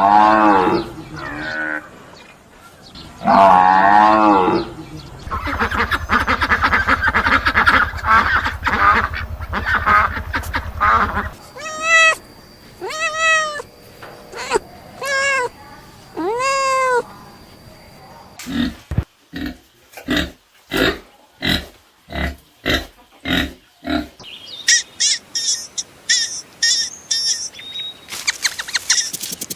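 A run of different animal calls, one after another: a few drawn-out pitched calls, a long buzzing stretch, four separate rising-and-falling calls, a string of sharp clicks, then high chirping near the end.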